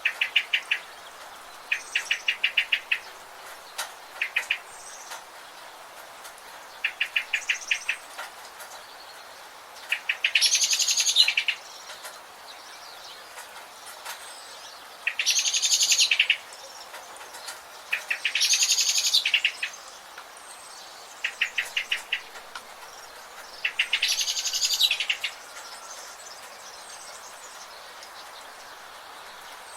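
Forest birds calling: short rapid trills of clicks alternate with longer, higher buzzy calls about a second and a half long, one every few seconds over a steady background hiss.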